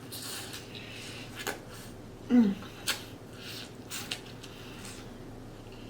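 Close-up mouth sounds of eating: wet smacks and clicks from chewing, with one short voiced 'mm' about two and a half seconds in.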